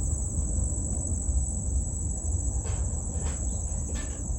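Steady high-pitched insect trilling, typical of crickets, over a low rumble, with a few faint ticks near the end.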